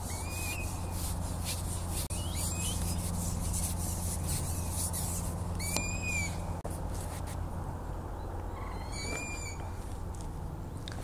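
A bird calling repeatedly: four short arched calls a few seconds apart, over a steady low background hum.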